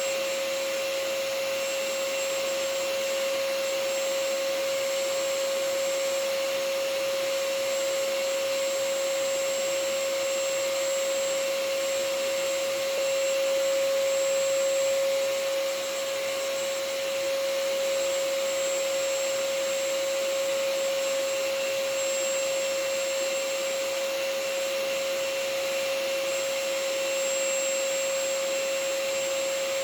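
Vacuum cleaner running steadily as white noise: an even hiss with a steady whine, unchanging throughout apart from a brief rise in level about halfway through.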